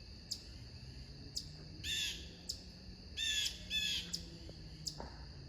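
Wild birds calling: harsh, squawking calls, one about two seconds in and a quick pair a little past three seconds, among short sharp high chips.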